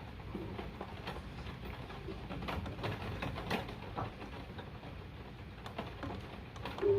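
Rain falling: a steady low hiss with scattered drops ticking irregularly.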